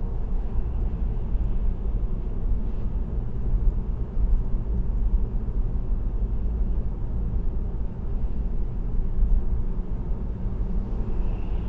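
Steady low rumble of a car cruising at highway speed: tyre and road noise with engine hum, even throughout.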